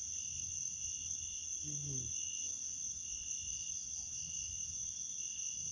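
Night insects, crickets, chirring steadily: one continuous high trill, with a lower chirp that comes and goes about once a second. A short low call sounds about two seconds in.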